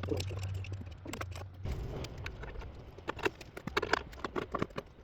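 Irregular clinks and knocks of metal parts and hand tools being handled while a bracket is bolted on. A low steady hum runs under them and stops about a second and a half in.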